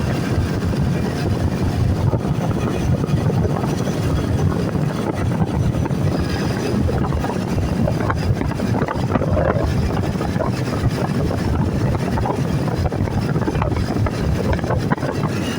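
Steady rumble of a vehicle on the move: engine and road noise, even throughout with no sudden events.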